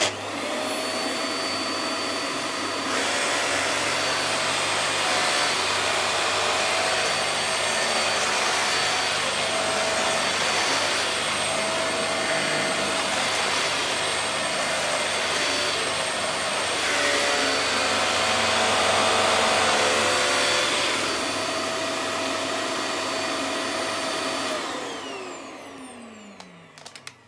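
Vax Air Stretch Pet Max upright vacuum cleaner switched on and running steadily over a wooden floor with a constant motor whine. Near the end it is switched off, and the whine falls as the motor winds down.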